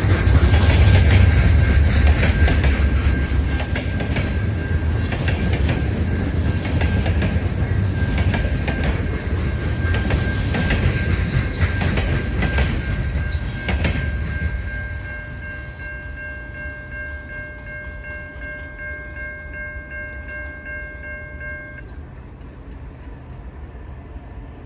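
Train passing close by: heavy rumble with wheels clicking over rail joints and a thin steady squeal. The rumble fades away about two-thirds of the way through. A steady chord of several high tones then holds for several seconds and stops shortly before the end.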